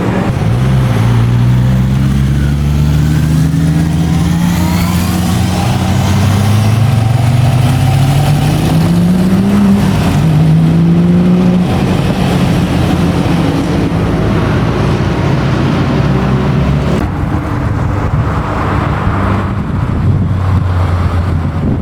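A classic car's engine accelerating hard, its pitch climbing steadily for several seconds, then dropping sharply about ten seconds in at an upshift before running on more evenly.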